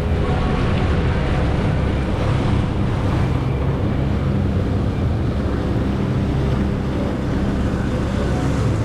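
Jet ski engine running steadily under way, with wind noise on the microphone.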